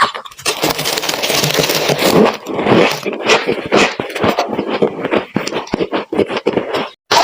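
Freezer frost being chewed close to the microphone: a dense, uneven run of crisp crunches and crackles, with no pauses until it cuts off abruptly just before the end.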